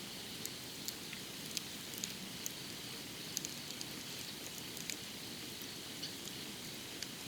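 Campfire firewood burning, with irregular small sharp crackles and pops over a steady soft hiss.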